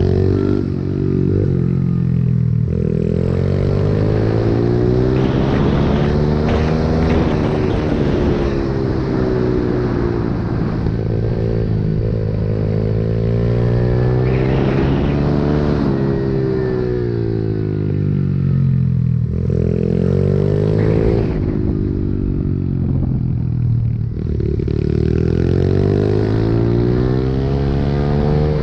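Pit bike engine revving up and down as the bike is ridden: the pitch climbs, falls back, and climbs again several times, with some rattling over it.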